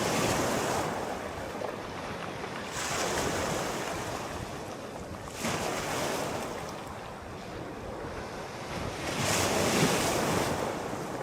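Sea waves breaking and washing ashore, a rushing surge every few seconds swelling and fading, four times.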